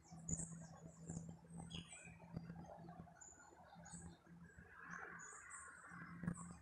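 Birds chirping faintly in the background, many short high chirps scattered throughout, over a low steady hum.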